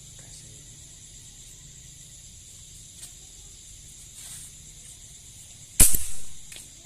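A single sharp air-rifle shot about six seconds in, by far the loudest sound, fading over about half a second. Beneath it is a steady high chirring of insects in the paddy field.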